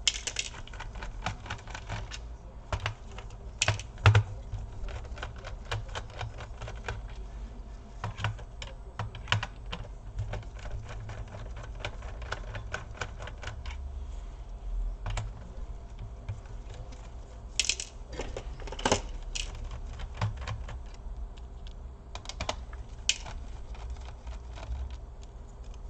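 Irregular light clicks and taps of a small screwdriver working the screws out of a laptop's plastic bottom case, with a few louder clicks now and then.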